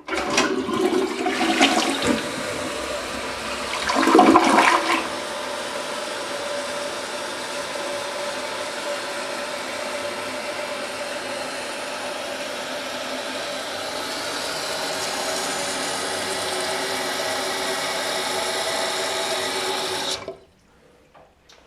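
Annwa one-piece dual-flush toilet flushing on its smaller (half) flush. A sudden rush of water swells louder about four seconds in, then settles into a long steady rush that stops abruptly near the end.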